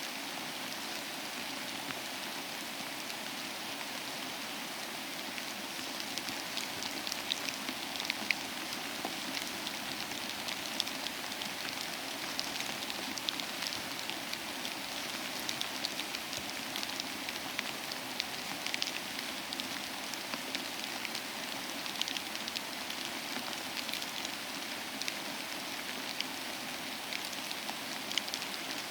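Steady rain falling on a surface, an even hiss with many individual drops pattering sharply, the drops more frequent after the first several seconds.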